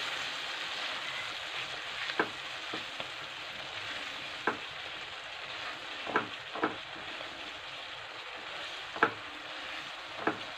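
Onion-tomato masala with spices and a splash of water sizzling steadily in a non-stick kadhai as it is stirred with a silicone spatula. The spatula knocks against the pan six or seven times.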